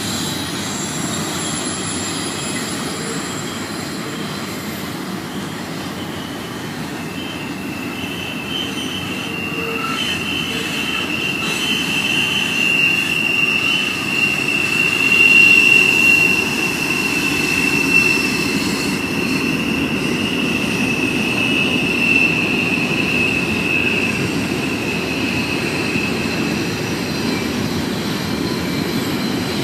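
BNSF intermodal freight train rolling through a curve with a steady low rumble, its wheels giving one long, high, steady squeal. The squeal comes in about a quarter of the way through, is loudest midway and fades out near the end.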